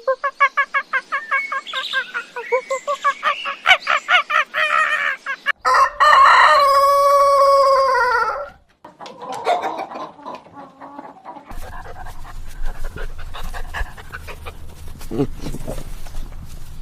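Chickens: a hen cackling in a fast run of short calls for about five seconds, then a rooster crowing once in a long call that falls at the end, followed by quieter clucking.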